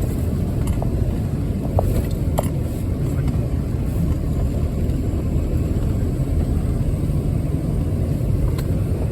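Off-road 4x4 vehicle driving on a wet trail, with its engine and running gear giving a steady low rumble and a few short knocks in the first couple of seconds.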